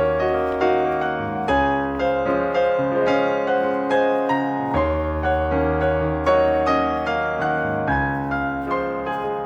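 Background piano music: a melody of quick notes over held bass notes that change every few seconds.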